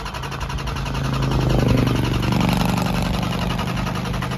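Dodge 392 Scat Pack's 6.4-litre HEMI V8 starting up and running with a fast, even pulse, growing louder toward the middle. The car has been shutting off and starting up on its own with its engine light on.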